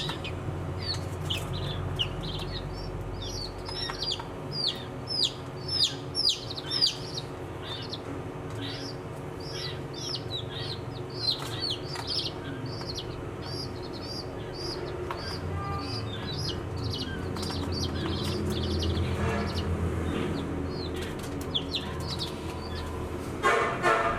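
Baby chicks peeping: many short, high calls, each falling sharply in pitch, coming thick and fast for the first half and thinning out later, over a steady low hum. Near the end a louder, lower call cuts in.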